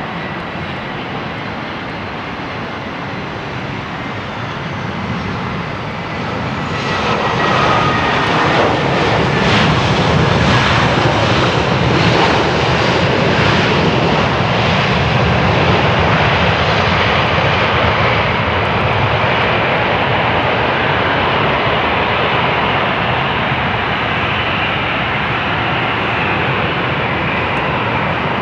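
Airbus A320-200 jet engines passing close by. The noise swells about seven seconds in with a whine falling in pitch, then stays loud and steady.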